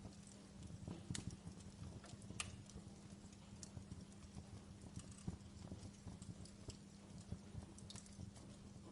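Wood fire burning in a fireplace: a soft low rumble of flames with irregular sharp crackles and pops from the logs, the louder pops about a second in, near two and a half seconds, and just past five seconds.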